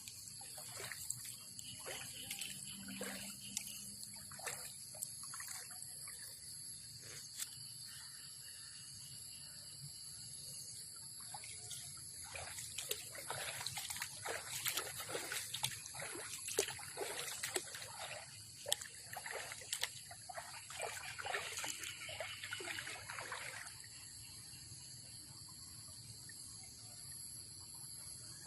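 Shallow floodwater splashing and trickling in irregular bursts, busiest in the middle and dying away near the end, over a steady high-pitched drone.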